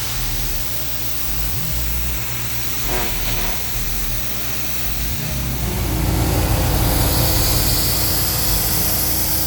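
Pressure washer's engine running steadily with the hiss of spraying water, growing louder about six seconds in.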